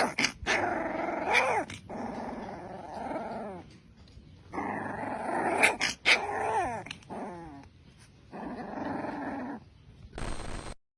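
A dog growling in three long bouts, its voice sliding down in pitch at times, then a short burst of noise and a sudden cut-off shortly before the end.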